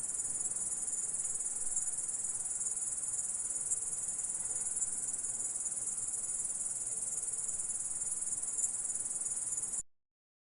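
Grasshopper stridulating: a steady, very high-pitched continuous trill that stops abruptly near the end.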